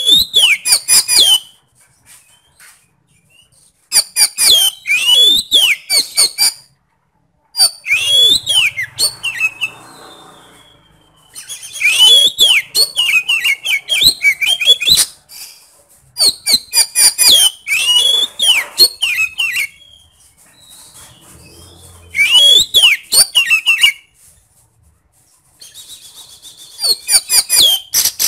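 Oriental magpie-robin (kacer) singing loudly in bursts of a few seconds with short pauses between, mixing rising-and-falling whistles with harsh, scratchy mimicked notes.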